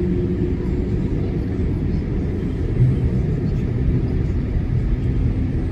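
Steady low rumble of a Boeing 787-8 Dreamliner heard from inside the cabin while taxiing, its engines at low taxi thrust.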